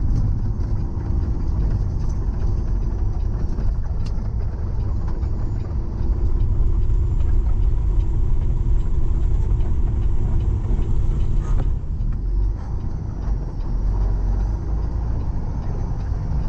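Tow truck's engine and road noise while driving, a steady low rumble that grows louder from about six seconds in and eases again around twelve seconds.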